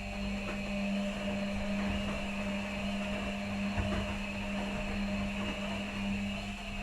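Two front-loading washing machines, an Electrolux and an Arctic, running their quick 30 °C wash programs with a blanket in each: a steady motor hum with a soft knock about four seconds in.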